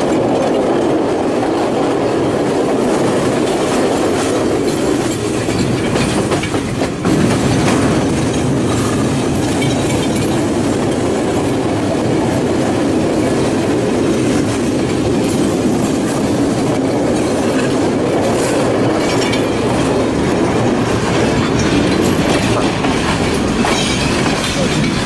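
Sri Lankan passenger train running along the track, heard from on board: a steady rumble of the wheels on the rails with occasional clicks.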